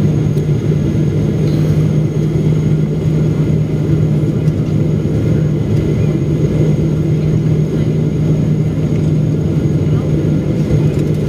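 Steady cabin drone of a Boeing 777-300ER's engines and airflow heard from inside the passenger cabin, a low continuous rumble with a constant hum.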